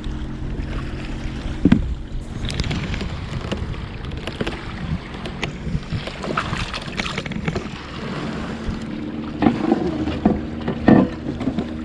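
Noises aboard a fishing kayak on the water: scattered knocks and handling sounds over a steady low hum and a haze of water and wind noise.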